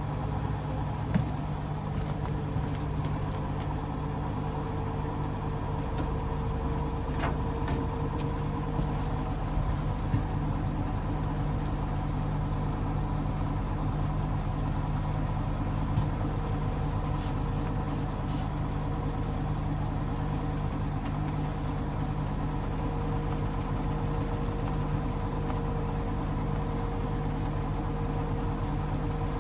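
Hoover DXOA610AHFN-80 washing machine running with a steady motor and drum hum, with a few faint clicks early on.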